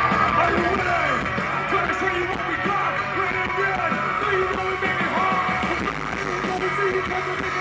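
Live band music with a singer, played loud over a stage sound system.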